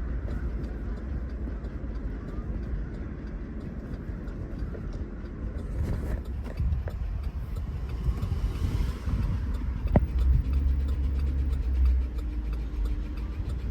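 GMC Yukon XL's 5.3-litre V8 running while driving, with a knock from a failing connecting-rod bearing (rod knock). A single sharp click comes about ten seconds in.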